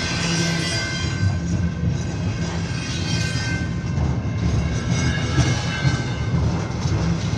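A train passing on the tracks, with a steady low rumble and the noise of the cars rolling.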